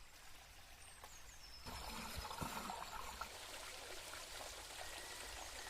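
Faint running stream water, trickling and pouring, getting a little louder about a second and a half in.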